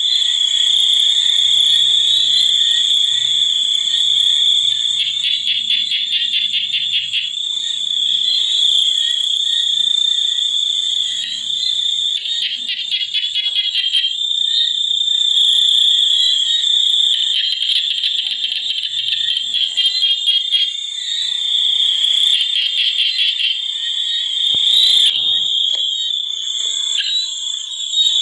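A dense chorus of frogs calling, a steady high trill with stretches of rapid pulsing and a few lower croaks.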